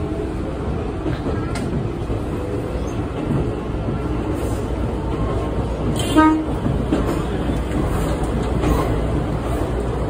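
Electric train running, heard from the driver's cab: a steady rumble of wheels on the rails, with a brief horn toot about six seconds in.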